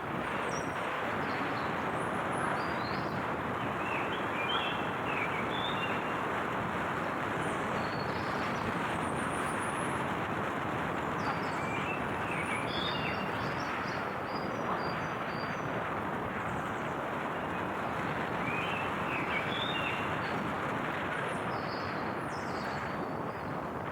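Steady rushing noise of a vehicle on the move, with birds chirping over it in short clusters of calls, about three seconds in, around twelve seconds and again near twenty seconds.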